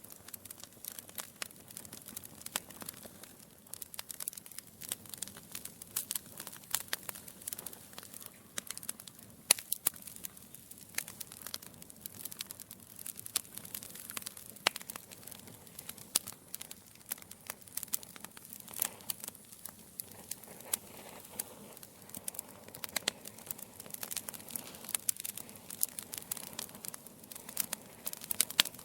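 Wood fire burning in a fireplace, logs crackling and popping with many sharp snaps over a soft hiss.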